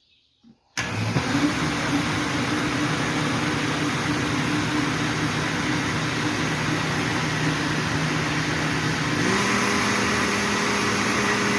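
Kitchen blender switching on about a second in and running steadily, blending cooking oil, caustic soda and ground rice into a soap mixture; its motor tone shifts up about nine seconds in.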